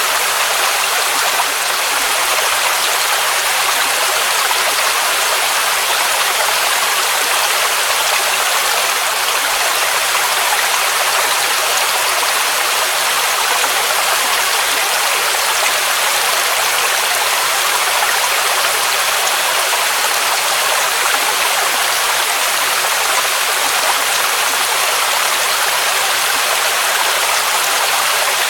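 Waterfall rushing steadily: an even, unbroken hiss of falling water, mostly high and bright with little low rumble.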